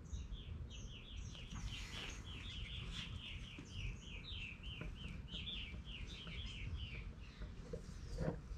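A small songbird singing a long, fast run of short falling chirps, about four a second, stopping about seven seconds in, over a steady low rumble.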